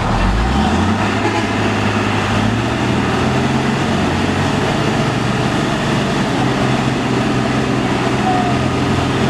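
Truck engine revving up over about the first second, then running on at a steady pitch.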